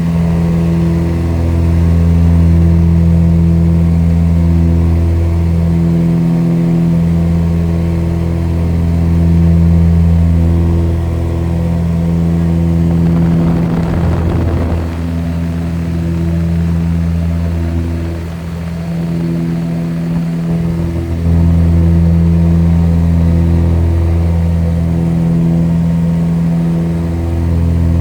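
Aircraft engine droning steadily, a stack of low tones that swells and fades every few seconds, with a brief rush of noise about halfway through.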